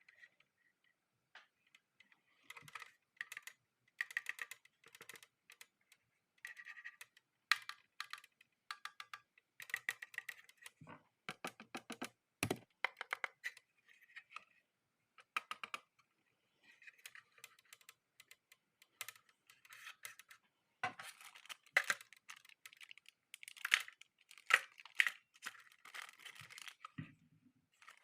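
Small plastic parts being handled: an irregular run of faint clicks, taps and rustles with short pauses between them.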